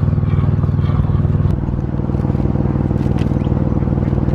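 An engine running steadily at idle, its pitch stepping down slightly about a second and a half in.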